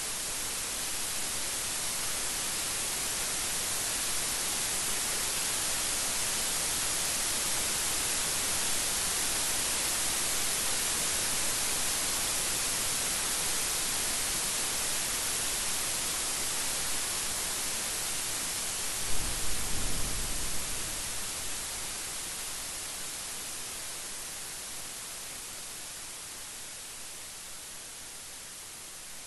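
Steady rain hiss, with a short, low rumble of thunder about two-thirds of the way through. The rain eases off a little near the end.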